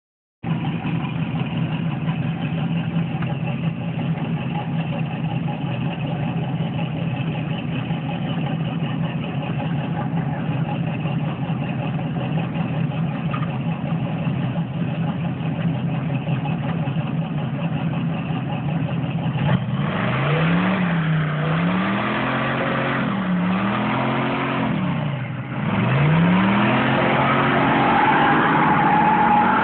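1986 Pontiac Grand Prix's 350 small-block Chevy V8 (Comp roller cam, TFS heads, RPM Air-Gap intake) idling steadily, then revved in three quick rises and falls about twenty seconds in. From about twenty-six seconds it is held louder at high revs as the rear tyres spin in a burnout.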